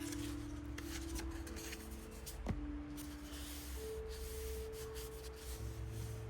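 Soft instrumental background music of long held notes that shift pitch every second or two, over small rubbing and clicking sounds of something being handled, with one sharper click about two and a half seconds in.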